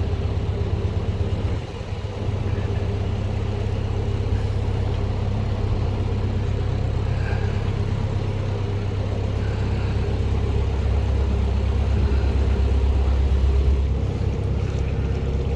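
Narrowboat's diesel engine running steadily at cruising speed, a low, even rumble.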